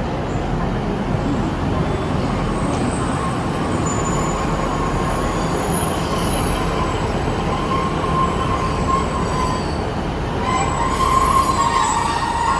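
A passenger train running along the rails, with the wheels squealing. The squeal grows louder near the end.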